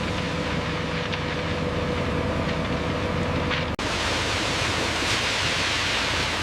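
Heavy diesel construction machinery running steadily with a low engine hum. About four seconds in, the sound breaks off abruptly and a louder steady hiss takes over.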